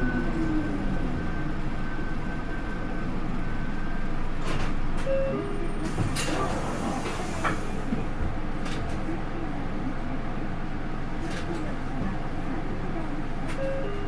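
Inside a Hino Rainbow II bus with a 4HK1-TCH turbo diesel and Aisin automatic: a steady low engine rumble, with a faint high whine for the first few seconds. From about four seconds in there is a scatter of clicks and rattles, and two short beeps.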